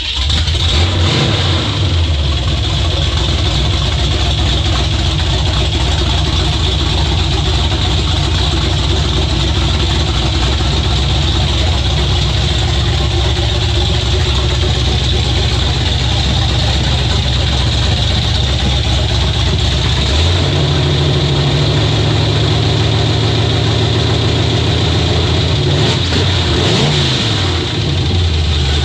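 Truck engine starting up and running steadily. About twenty seconds in its note steps up, and near the end it is revved once, rising and falling.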